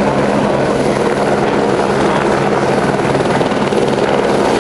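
Robinson R22 Beta II helicopter running close by: its piston engine and rotor make a steady, loud noise over a steady low hum, with no change in power.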